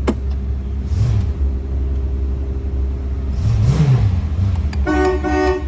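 The 1990 Cadillac Sedan de Ville's windshield wipers sweep across the glass over a steady hum from the idling engine and high-speed blower fan, then the car's horn gives two short beeps near the end.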